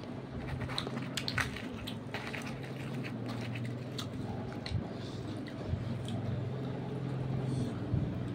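Close-up eating sounds: chewing and wet mouth clicks as puri and curry are eaten by hand, over a steady low hum.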